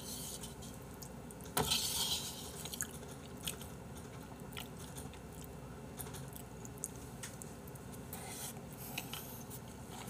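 A person eating Chapagetti noodles into a close microphone: a short loud slurp as a mouthful of noodles is drawn in about two seconds in, then soft wet chewing with scattered small clicks.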